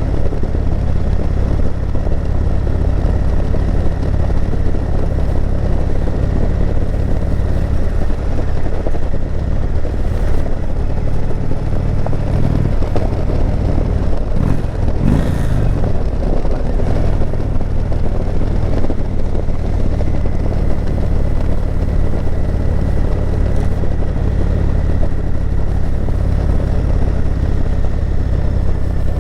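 Indian Chieftain Dark Horse motorcycle's V-twin engine running at steady low revs while riding. About halfway through, the engine note briefly dips and rises again.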